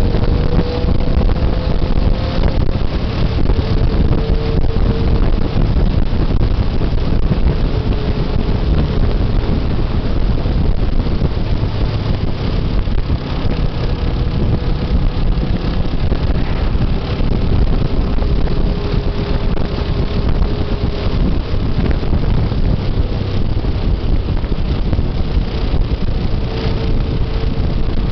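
Motorcycle riding along a road: a steady engine drone with a faint wavering tone, under heavy wind noise on the microphone.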